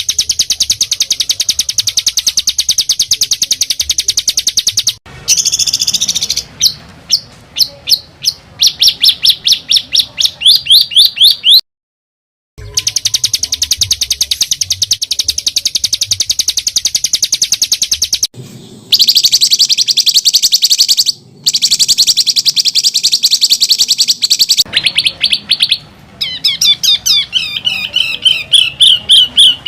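Songbird singing harsh, very rapid rattling trills and fast runs of repeated notes, in spliced segments separated by brief silent gaps. In one stretch, separate notes come faster and faster until they run together.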